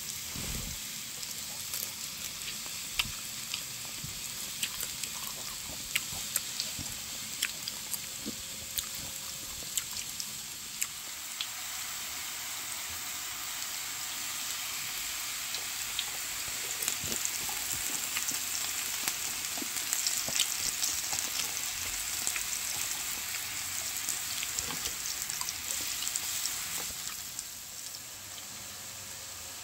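Beef large intestine (daechang) and mushrooms sizzling in rendered fat on a small tabletop grill plate: a steady high hiss with frequent sharp pops of spitting oil. The sizzle grows a little louder in the middle and drops off near the end.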